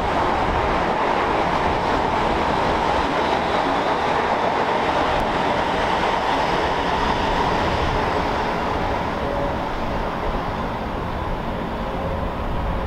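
Multi-car passenger train passing close by at speed: a steady, loud rush of wheels on rail, easing slightly near the end.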